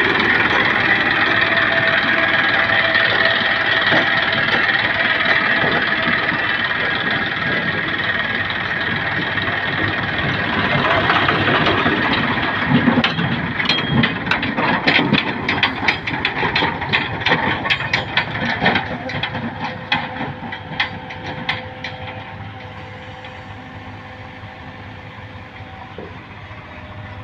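Tractor engine running loudly, with a stretch of many sharp knocks and rattles about halfway through. After that it drops to a quieter, steady running sound.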